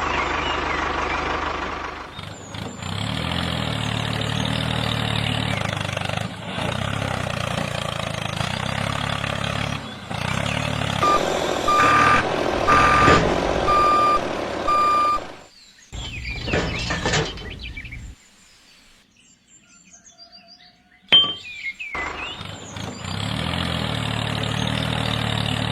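A miniature construction vehicle's engine sound running steadily, with reversing beeps about once a second from around the middle. The engine drops out for a few seconds after the beeps, and a sharp knock comes just before it returns.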